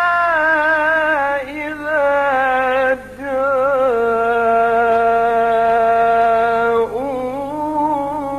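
A male reciter chants the Quran in a melodic style, holding long drawn-out notes that waver and turn in pitch. He breaks off briefly about a second and a half in and again about three seconds in.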